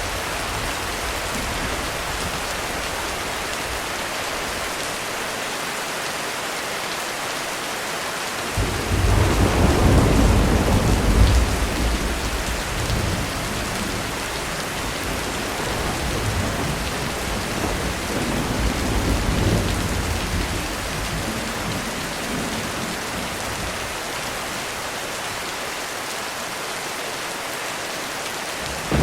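Heavy rain falling steadily in a thunderstorm. About a third of the way in, thunder breaks in suddenly and rolls for a few seconds before easing off. Fainter rumbles follow later, and another peal starts right at the end.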